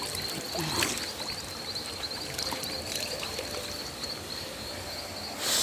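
River water running and trickling, with small splashes and a louder rush of splashing water near the end. A steady high tone sits behind it.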